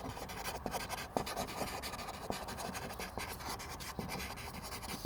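Charcoal scratching across drawing paper in many quick, irregular strokes, laying in texture.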